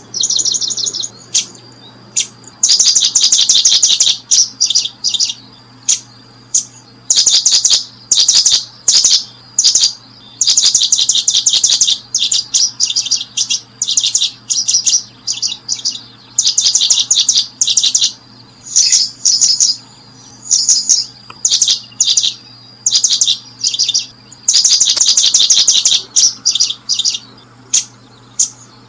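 Small birds chirping in quick runs of high, rapid chirps that come in bursts of about a second or two with short gaps between them. A faint steady high tone runs underneath.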